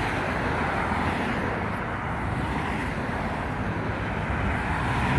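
Steady traffic noise from a busy city street, with a low rumble from wind on the microphone.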